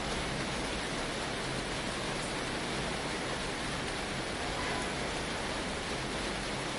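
Steady heavy rain on a tin roof: an even hiss with no single drops or thunder standing out.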